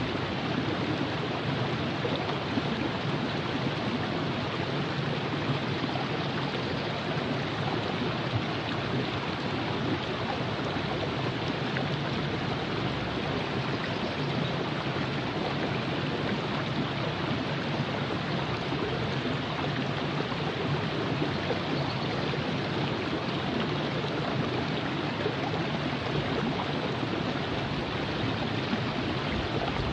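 Steady rushing and burbling of river water flowing over rocks, a continuous even sound with no breaks.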